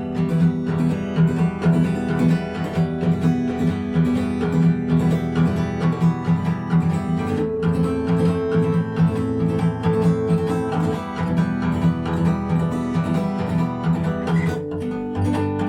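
Acoustic guitar strummed in the fast "gallop" pattern (down with the fingernails, up with the thumb, down), quick even strokes several times a second. The chord changes about halfway through and again near the end.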